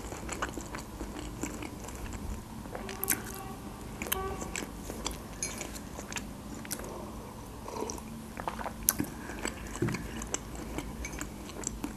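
A person chewing a mouthful of food close to the microphone, with small irregular wet clicks and smacks of the mouth.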